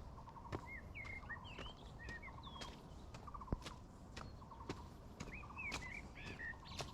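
Footsteps on a trail with birds calling: higher chirping, swooping notes, and a short rapid pulsed call repeated about once a second.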